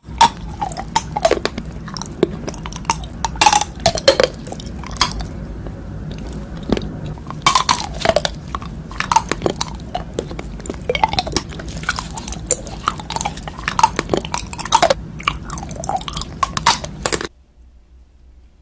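Close-miked biting and chewing of a swirled unicorn-horn candy, with many crisp crunches and crackles mixed with short wet, sticky mouth sounds. The eating cuts off abruptly near the end.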